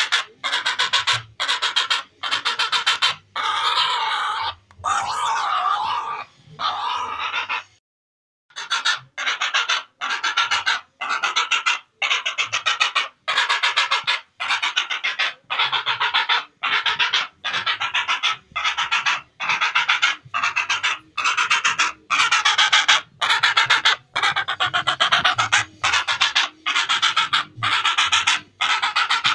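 Heron calls: harsh, rasping croaks repeated over and over. The first few are longer; after a short break about eight seconds in, they come about once a second at an even pace.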